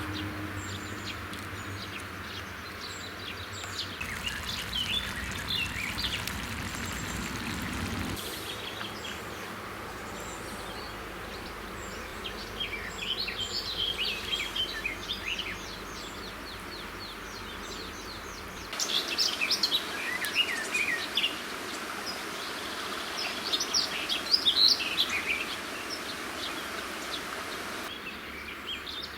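Songbirds singing and chirping over a steady outdoor hiss, the calls loudest about two-thirds of the way through. The background changes abruptly a few times.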